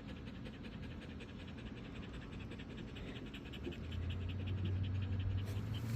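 A dog panting fast and evenly, several breaths a second. About four seconds in, a low steady hum comes in underneath.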